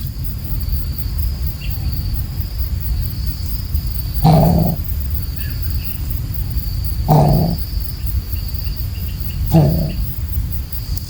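Coucal (burung bubut) giving three deep, low hoots about two and a half seconds apart, over a steady high drone of insects.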